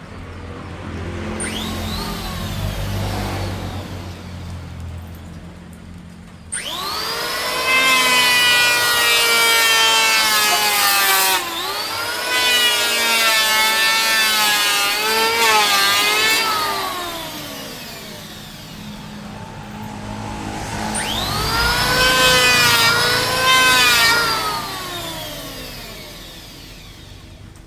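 Electric woodworking power tool cutting mahogany in three long passes, its motor whine dipping in pitch under load and sliding down as it winds down after each pass.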